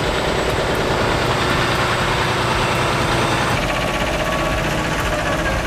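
A heavy engine running steadily, with a dense mechanical drone. The sound shifts abruptly about three and a half seconds in.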